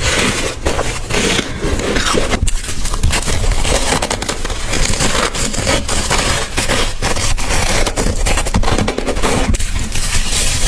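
Close-up crunching of soft, frosty white ice chunks being bitten and chewed, a dense run of crisp cracks and squeaky crackles.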